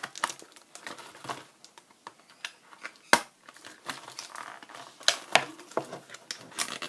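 Plastic toy packaging crinkling and crackling irregularly as small items are worked loose from it, with a few sharper clicks.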